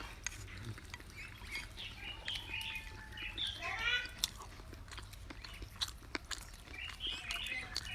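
An animal calling in a few short pitched cries, the clearest about halfway through and again near the end, with scattered small clicks and taps.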